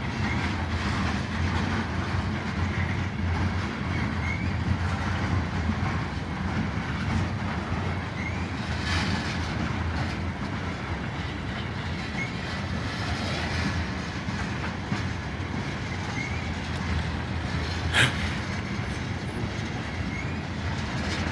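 Freight train of tank cars rolling past at low speed: a steady rumble of wheels with clickety-clack over the rail joints and faint short wheel squeals now and then. A single sharp knock about eighteen seconds in.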